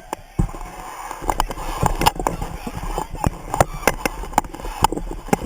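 Crowd of students shouting in the rain, with many sharp, irregular taps and knocks throughout; the crowd swells about half a second in.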